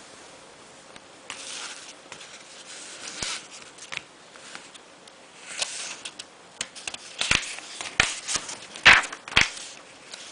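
Handling noises from work on a bathroom ceiling ventilation fan: scattered clicks and scrapes that thicken into a quick run of sharp knocks, loudest near the end.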